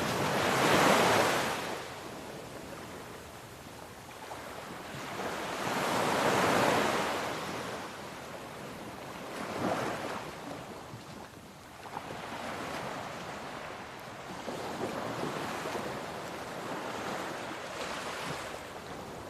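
Gentle sea waves rolling in, each one swelling and fading over a few seconds. The biggest come about a second in and around six seconds in, and softer ones follow.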